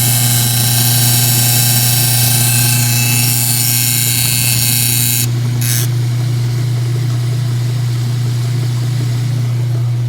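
Whirlpool direct-drive washer in its spin cycle: a steady low motor hum with a harsh, high-pitched noise over it. The noise, traced to the motor strap, cuts out abruptly about five seconds in, leaving the hum.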